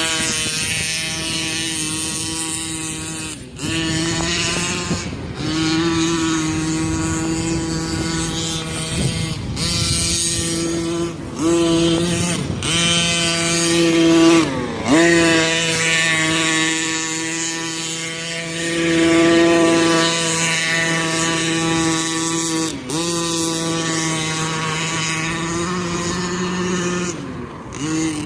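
Gas-powered 1/5-scale Losi Monster Truck XL's 34cc Scott Finlay two-stroke engine running at high revs. Its note dips sharply and climbs back about seven times as the throttle is let off and reopened.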